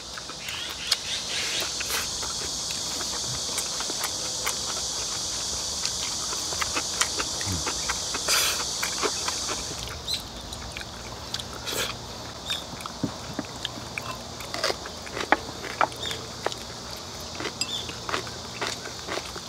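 Close-miked eating: chewing and slurping of kimchi and rice, with chopsticks clicking against glass bowls many times. A steady high insect drone runs through the first half and stops abruptly about ten seconds in.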